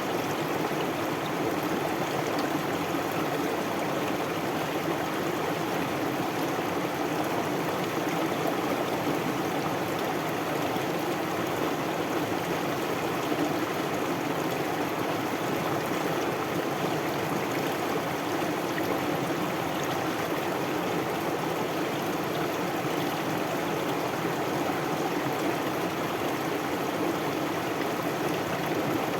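Stream water flowing and babbling steadily, an even rushing sound with no breaks.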